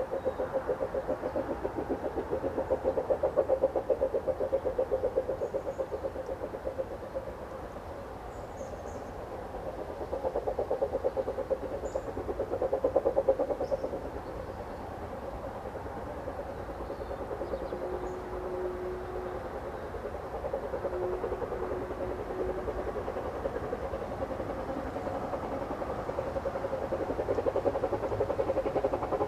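Narrow-gauge steam locomotive running with a train, a rapid, even beat that swells louder and fades back twice.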